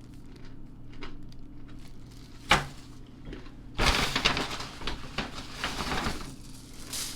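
Candy bags crinkling and rustling as they are handled. A sharp click comes about two and a half seconds in, then a longer stretch of crackly crinkling.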